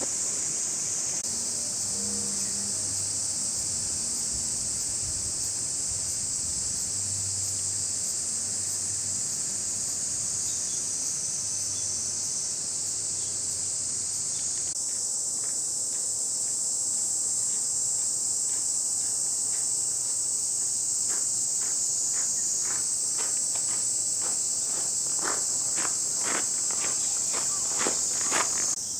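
A loud, steady chorus of cicadas singing in summer, a dense high-pitched drone. In the last several seconds, a run of short crunching or tapping sounds comes in, growing louder toward the end.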